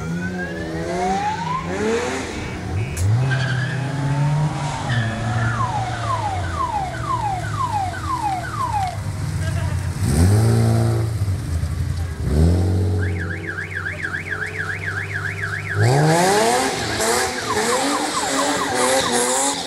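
Car engines revving hard in repeated bursts while an electronic alarm siren cycles through a series of falling whoops and then a fast warble. In the last few seconds tyres squeal as a car spins its wheels in a burnout.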